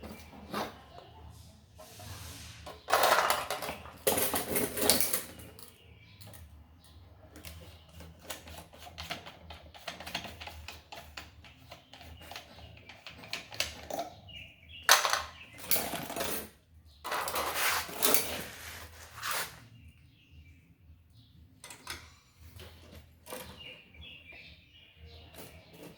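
Clicks and taps of small parts being handled during an electric fan repair, with two stretches of louder rasping or scrubbing noise, one a few seconds in and one just past the middle.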